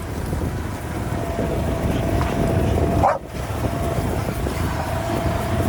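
Vehicle running steadily while driving, a low rumble with a constant whine over it; it breaks off for a moment about three seconds in, just after a short sharp sound.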